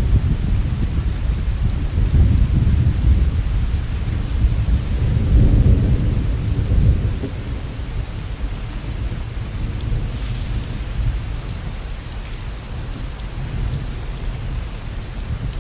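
Heavy rain falling steadily, with a deep rolling rumble of thunder that is loudest in the first half and dies away about halfway through.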